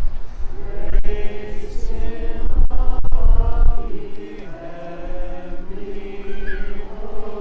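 A group of people singing a hymn together in held, slow notes. A low rumble runs under the singing through the first half and drops away about four seconds in.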